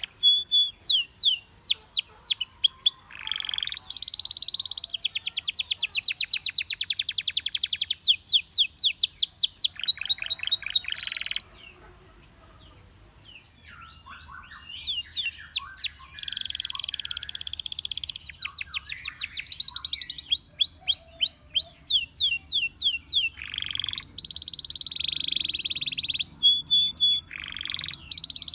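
Domestic canary singing: fast rolling trills and runs of rapidly repeated high chirps, broken by a pause of about two seconds near the middle.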